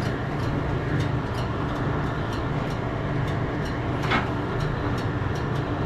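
A steady mechanical running noise with a low hum and regular ticks about three to four times a second, and a brief hiss about four seconds in.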